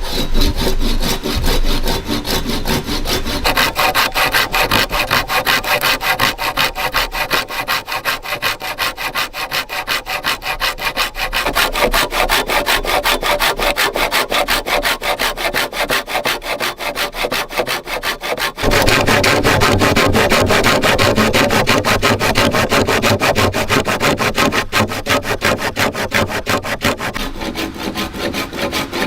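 Wood being sawn: a rapid, even rasping of strokes that carries on throughout, growing louder and fuller about two-thirds of the way through.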